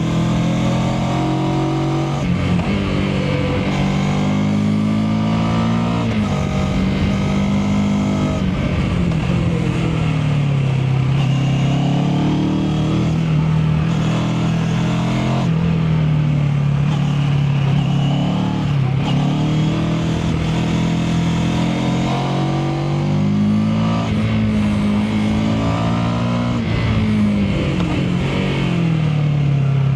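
Mash FR 750 motorcycle engine pulling hard through the gears: its pitch climbs, drops sharply at each shift, then climbs again, over and over.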